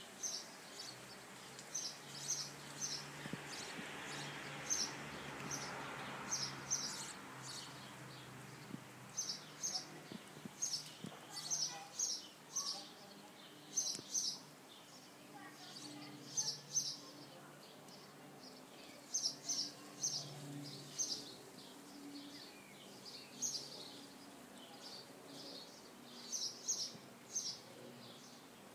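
A small bird chirping over and over in short, high calls, several in quick succession at a time, with a faint steady low hum beneath and a brief swell of background noise in the first few seconds.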